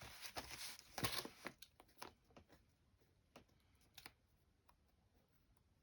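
Faint light taps and paper rustles from paper crafting at a desk, clustered in the first two seconds, then mostly quiet with a few isolated clicks.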